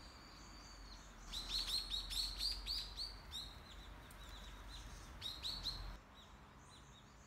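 Small birds chirping outdoors: a held high whistle, then runs of short, quick falling chirps, several a second, over a low outdoor hiss. The chirping stops about six seconds in.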